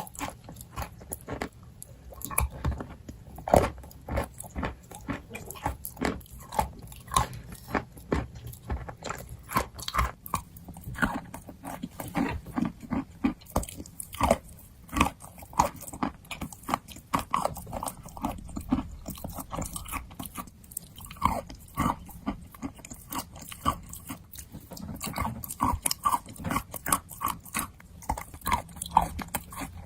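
A person biting and chewing dry, crumbly pieces of edible chalk and clay: a dense, irregular run of sharp crunches.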